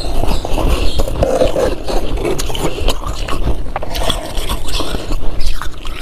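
A spoon scraping crunchy frost, a continuous rough scraping dotted with many small crackles.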